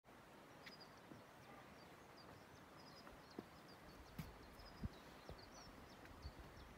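Faint, high, short chirps of small birds repeating throughout. From about halfway, a few soft knocks of footsteps on granite boulders join in.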